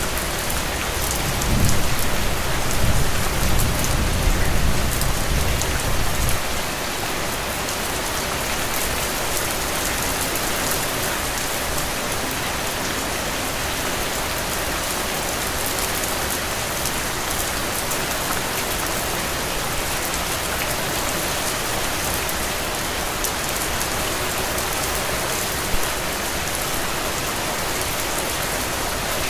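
Heavy, steady rain falling on open ground and puddles, an even dense hiss. For a few seconds near the start a low rumble rises under it and then stops abruptly.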